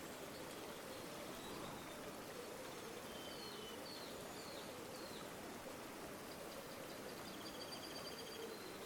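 River water flowing steadily, a faint, even rush. Small birds chirp faintly over it: a few short chirps a few seconds in and a rapid trill near the end.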